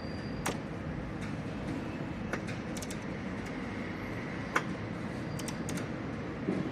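Sharp metallic clicks and taps from hand tools on metal as an oil filter is fitted and tightened, about seven scattered through, the loudest about four and a half seconds in, over a steady background hum.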